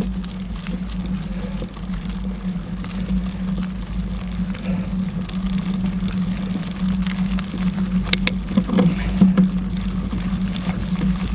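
Mountain bike riding on a dirt trail: a steady rumble of tyres and wind on the camera's microphone, with a couple of sharp rattles about eight seconds in.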